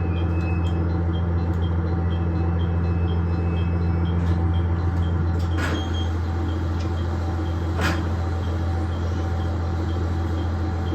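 KiHa 110 series diesel railcar running along the line, heard from inside: a steady low diesel engine drone with track noise. The engine note shifts slightly about six seconds in, and two sharp knocks come about two seconds apart.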